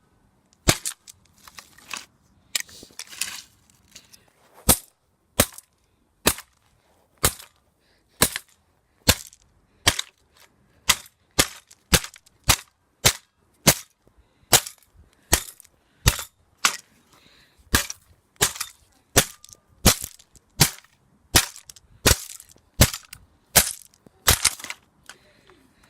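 A vacuum cleaner pole repeatedly whacking a cardboard box: a long run of sharp, cracking strikes, a little over one a second and fairly even, each one short.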